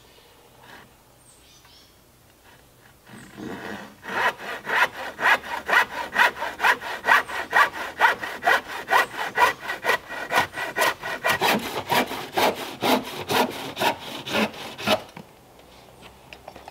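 Hand saw cutting a wooden deck board to length, in steady back-and-forth strokes about three or four a second. The strokes start light about three seconds in, come on strongly a second later and stop about two seconds before the end.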